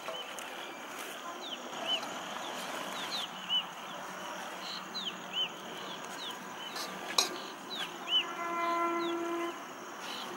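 Birds chirping over and over in short high calls, with a sharp click about seven seconds in and a longer held animal call from about eight seconds in.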